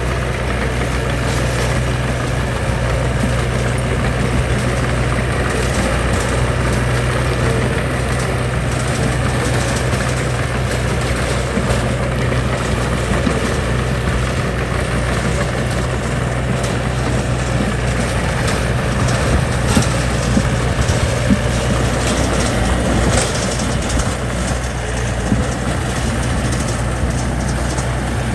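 Diesel engine of heavy earthmoving machinery running steadily, with a few short knocks about two-thirds of the way through.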